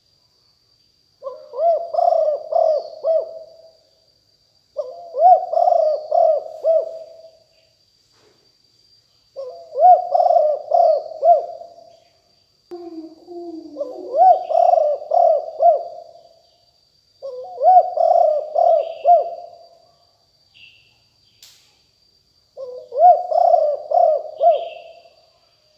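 Spotted dove cooing: six phrases of several quick coos each, every phrase about two seconds long with a pause of a couple of seconds between. Faint high chirps of small birds and a thin steady high whine run underneath.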